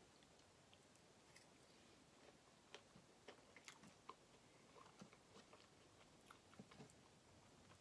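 Faint chewing and mouth sounds of someone eating fries with cheese sauce, with scattered light clicks of a metal fork scraping against a metal sheet pan, more frequent after the first few seconds.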